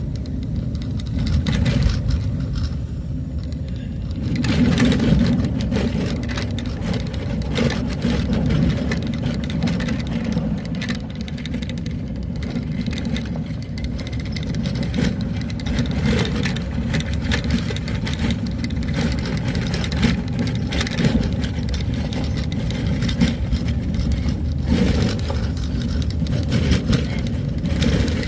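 A vehicle driving along a road: a steady low engine and road rumble with scattered rattles and knocks, a little louder around five seconds in and again near the end.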